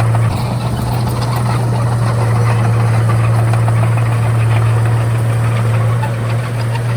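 Komatsu D31A bulldozer's diesel engine running steadily, a deep drone, with a constant rattle and clatter from the machine.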